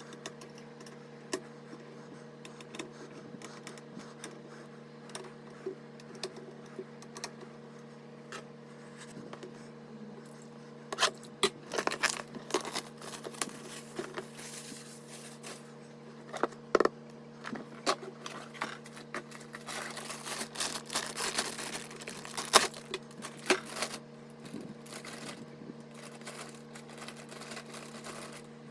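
Hands handling computer parts and packaging: scattered clicks, scrapes and crinkles, busiest in the middle, over a steady low hum.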